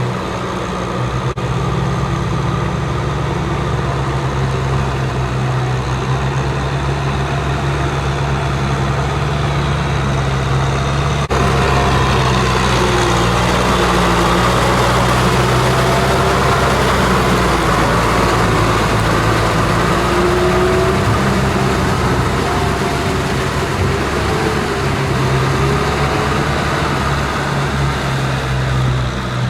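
Kubota M6040SU tractor's diesel engine running steadily at work in the field. There are two sudden breaks, about a second in and about eleven seconds in, and after the second one it is louder, with its pitch wavering a little.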